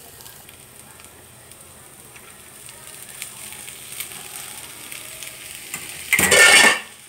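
Scrambled egg frying quietly in a non-stick pan, with a few light clicks of a wooden spatula, as boiled rice is tipped in on top. About six seconds in comes a loud scraping rush lasting under a second.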